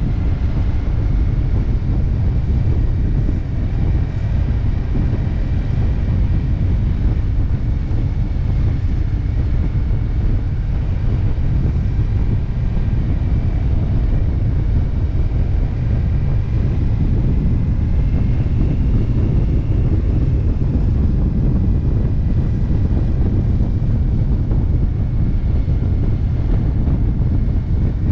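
Wind rushing over the microphone of a motorcycle cruising on the open road, with the engine running steadily underneath and a faint whine that drifts slowly in pitch.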